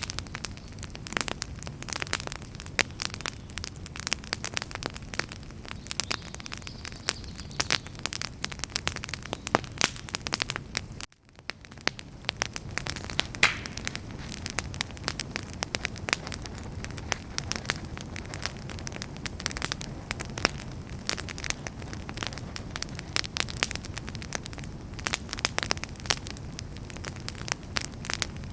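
Wood fire crackling, with dense irregular pops and snaps over a low steady rumble of flames. The sound cuts out for a moment about eleven seconds in, then comes back.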